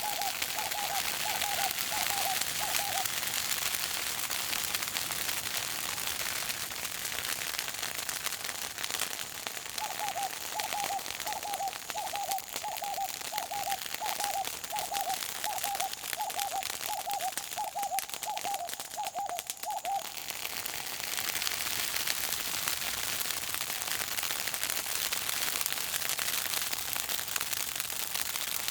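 Bush fire crackling steadily. A bird calls over it in a series of short hooting notes, about two a second: a short run at the start and a longer one from about ten to twenty seconds in.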